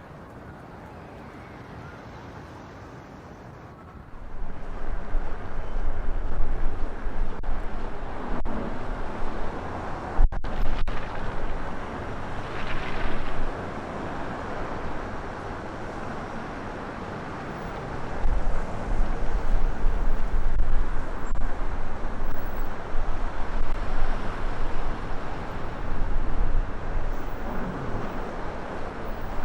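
Strong wind buffeting the microphone in a blizzard, a jagged low rumble over a steady rushing noise. It picks up sharply about four seconds in, eases for a few seconds mid-way, then gusts hard again.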